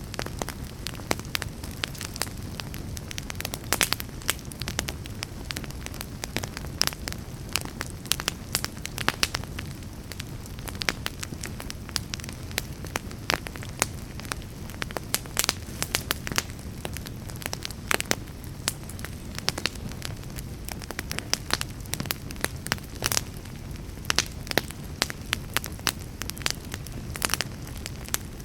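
Wood fire burning in a fireplace: a steady low rumble of the flames with many sharp, irregular crackles and pops from the burning logs.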